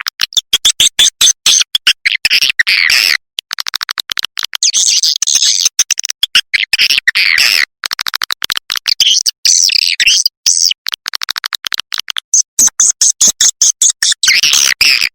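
Swiftlet calling track: rapid runs of dry clicks mixed with shrill, twittering chirps, broken by a few short pauses. It is a lure call of the kind played to draw swiftlets into a nesting house.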